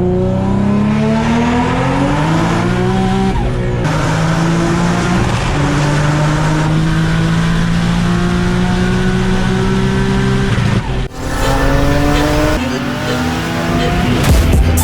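Big-turbo 2004 Infiniti G35 coupe's V6 engine pulling hard under acceleration: its pitch climbs, drops sharply at upshifts about three and a half and eleven seconds in, then climbs again.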